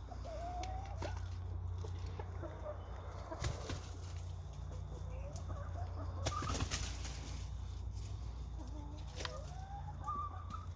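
Chickens making short soft clucking calls while pecking at bread rolls, with scattered sharp clicks and rustles. A steady low hum runs underneath.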